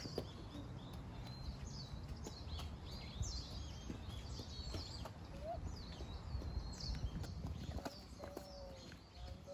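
Birds calling over and over in the trees with short, high chirps that sweep down in pitch, over a low steady rumble.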